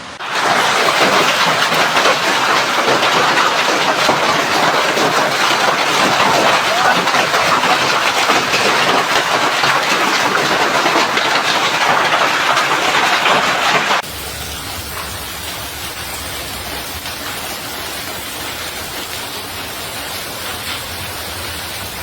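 Heavy hailstorm: a loud, dense clatter of hail pelting down. About 14 seconds in it cuts abruptly to a quieter, steady rushing noise with a low rumble.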